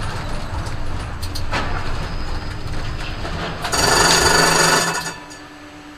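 Steady road and engine rumble of a moving car, then a car horn sounds loudly for about a second and a half near the end.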